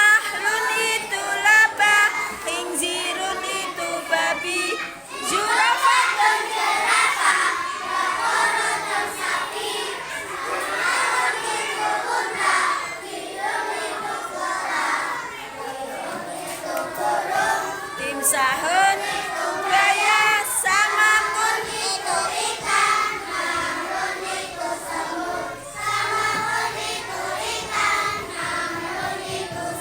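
A group of children singing together, many high voices overlapping without a break.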